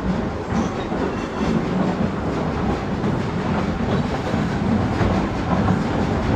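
Passenger car of a narrow-gauge heritage train rolling along the track, heard from aboard: a steady rumble with faint repeated clicks of the wheels over the rail joints.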